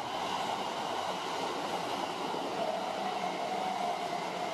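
Kintetsu 23000 series Ise-Shima Liner limited express running through a station platform without stopping: a steady rush of wheels and running gear, with a faint whine rising out of it around the middle.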